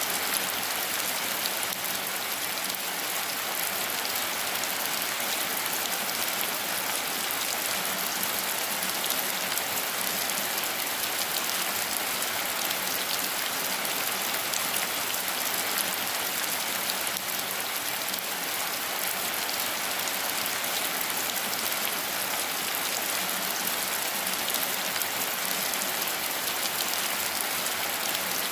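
Steady rain falling, an even hiss with many fine, quick drop impacts that holds at a constant strength.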